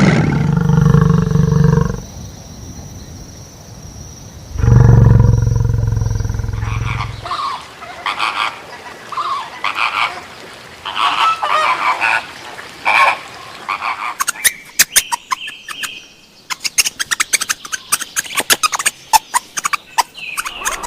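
Animal calls: two long, low-pitched calls, then a run of short calls, then a stretch of quick clicks and knocks with a brief high tone.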